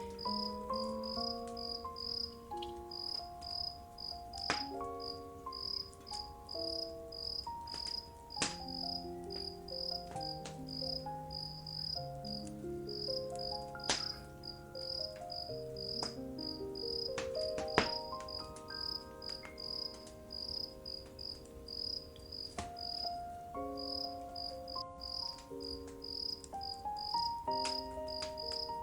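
A cricket chirping steadily, about two chirps a second, over a slow, soft melody of held notes. Scattered crackles and pops from a wood fire, the two loudest about halfway through and about two-thirds of the way through.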